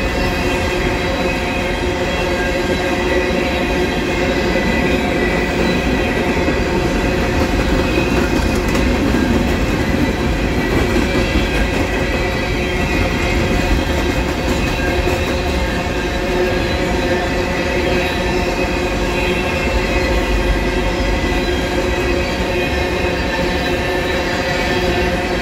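Empty coal hopper cars of a CSX freight train rolling past: a loud, steady rumble and rattle of wheels on the rails, with steady ringing tones over it.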